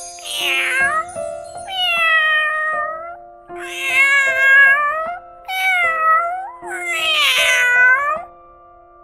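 Domestic cat meowing about five times, each call a second or so long and bending in pitch, over steady background music.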